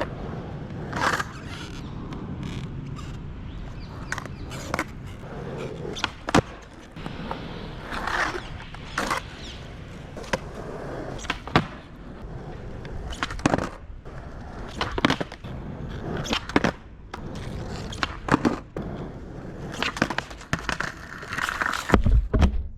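Skateboard rolling, its wheels making a steady rumble, broken by many sharp clacks of the board slapping and landing on the ground as tricks are tried.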